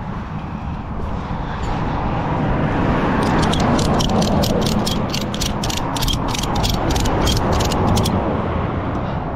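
Ratchet strap being cranked tight, a run of about eighteen clicks at roughly four a second, over the steady rumble of a truck engine running.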